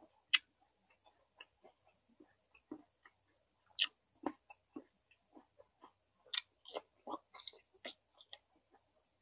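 A person chewing roasted vegetables close to the microphone: irregular short mouth clicks and smacks, several a second.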